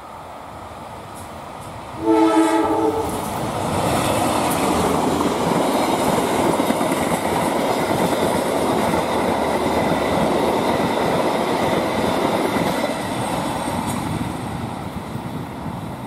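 Passenger train passing close by. About two seconds in, its diesel locomotive gives one short horn blast. The wheels then rumble and clatter on the rails as the carriages go by, fading near the end as the train moves away.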